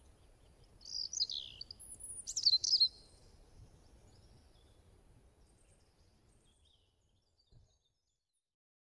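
Birds chirping: two bright falling chirps about one and two and a half seconds in, then fainter twittering over a light background hiss that fades out about seven seconds in.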